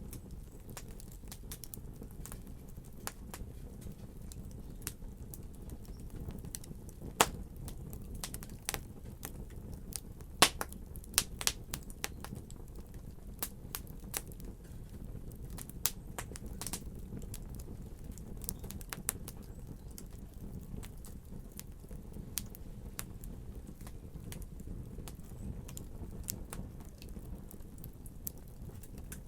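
Wood fire crackling: a low steady rumble of burning with irregular sharp pops and snaps, a cluster of louder pops about ten to twelve seconds in.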